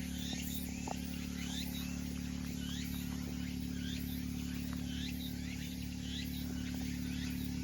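Insects and birds calling outdoors: short rising chirps repeat about twice a second over a pulsing high insect buzz, with a steady low hum beneath.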